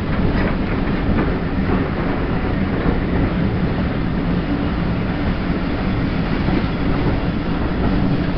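Passenger coaches of an arriving train rolling past a station platform: a steady rumble of wheels on the rails, with a few clicks from the wheels over rail joints in the first second or so.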